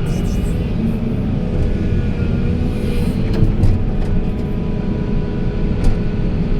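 Heavy machine's diesel engine running steadily with a deep, continuous rumble, a few steady engine tones over it.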